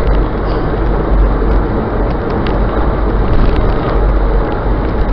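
Car driving: loud, steady road and engine rumble with a strong low end.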